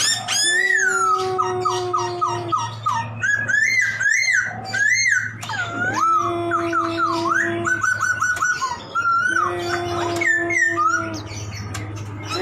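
Poksay (laughingthrush) singing a loud, varied song: rising and falling whistled glides, a quick run of about half a dozen repeated notes, and short trills. Under the song runs a steady held drone-like tone that breaks off and returns.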